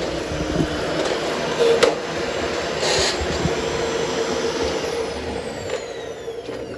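13-inch Hoover Hushtone upright vacuum running steadily with a couple of knocks. About five seconds in it is switched off and its motor winds down with a falling whine.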